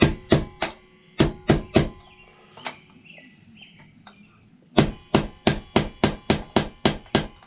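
Repeated hammer blows on metal, in quick runs of about three a second with a pause in the middle, with a faint ring after the strikes. A part on the motorcycle is stuck and won't come loose.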